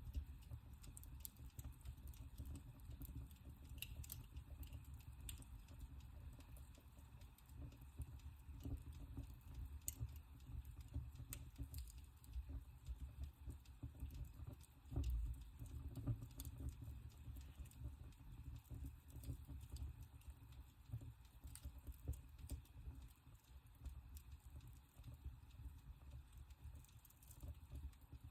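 Wood fire burning in a fireplace: a low steady rumble of flames with scattered small crackles and pops, and one louder low thump about halfway through.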